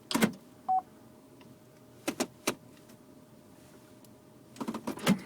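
Several sharp clicks and knocks from handling controls inside a car's cabin: one at the start, a pair a couple of seconds in, and a cluster near the end. A single short beep sounds about a second in, over a faint steady hum.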